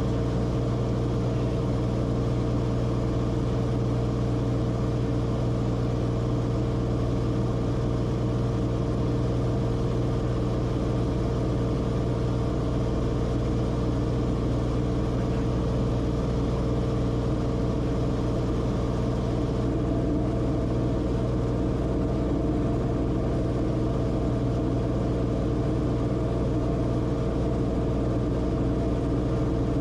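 Steady drone of the Cessna Corvalis TTX's turbocharged six-cylinder engine and propeller, heard from inside the cabin, holding one even pitch and level throughout.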